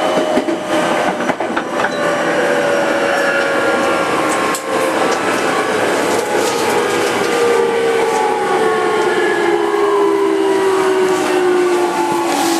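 Inside the motor car of a 205 series 5000 subseries electric train, the inverter-driven traction motor whine falls steadily in pitch as the train slows, over running rail noise. There is a sharp click about four and a half seconds in.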